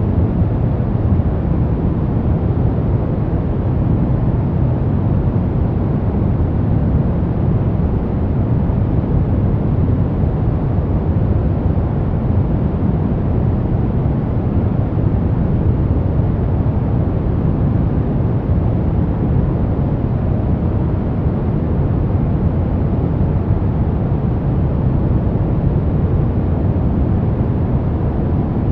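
Steady synthetic noise of a sleep and relaxation track, billed as white noise but deep and dull, with most of its weight in the low end and little hiss. It holds the same level without any change.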